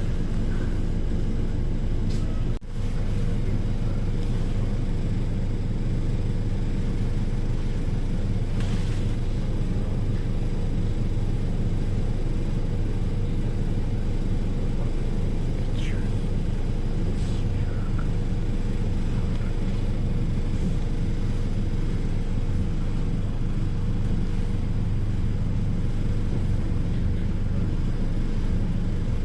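Steady low rumble of a train in motion, holding an even level throughout, with a brief dropout just under three seconds in.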